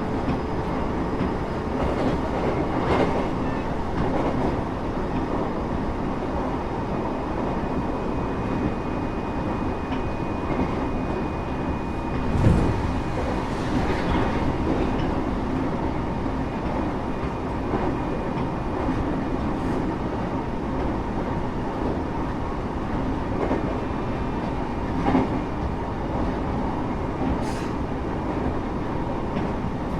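Running noise inside a Japanese passenger train car: a steady rumble of wheels on the rails, broken by a few short knocks, the strongest about twelve seconds in and another about twenty-five seconds in.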